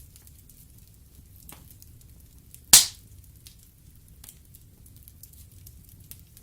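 Wood fire in a fireplace burning with scattered faint crackles over a low rumble, and one loud sharp pop of a log a little under three seconds in.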